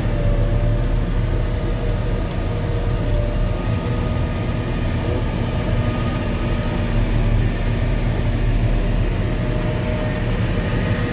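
Volvo L70H wheel loader's diesel engine and snow blower running steadily, heard from inside the cab as a deep drone with a faint whine held over it.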